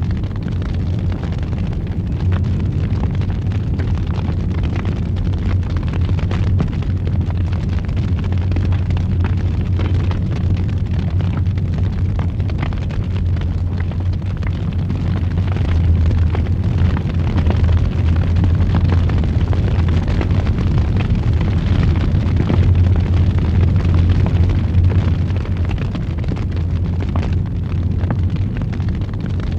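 Fire burning in a fireplace: a steady low roar with many small crackles and pops, swelling a little louder in the middle.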